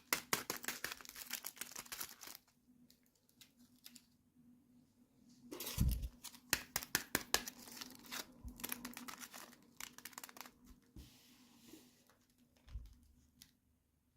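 Toy packaging being handled and opened: plastic and paper crinkling and tearing in bursts, with a soft thump about six seconds in and quieter gaps between.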